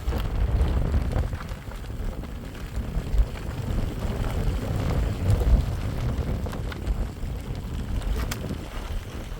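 Strong wind gusting and buffeting the microphone in a low, surging rumble, with a few scattered sharp ticks.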